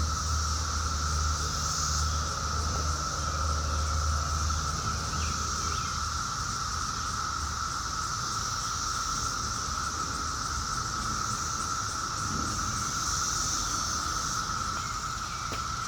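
Steady insect chorus, an unbroken high-pitched trilling, with a low hum underneath that fades out about halfway through.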